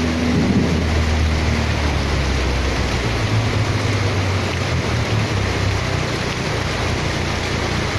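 Heavy rain and rushing floodwater in a flooded street, a steady loud wash of noise. A vehicle's engine hum sits low underneath, strongest in the first few seconds.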